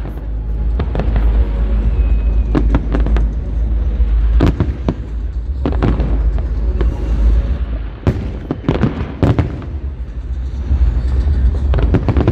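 Aerial firework shells bursting in a display: sharp bangs every second or two over a constant heavy low rumble of booms.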